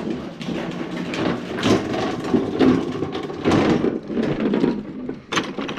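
Toro Recycler push mower being pull-started: several rough, noisy strokes of the recoil starter about a second apart, the small engine turning over without catching just after its carburetor was cleaned.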